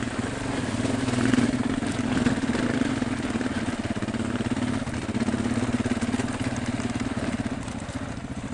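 BMW GS motorcycle engine running steadily at low revs, a fine, even throb with no revving.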